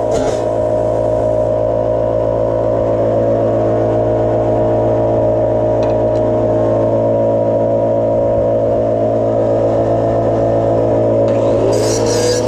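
Steady machine hum from running shop equipment. Near the end a harsh hiss starts, as of a cutting or grinding tool starting on metal.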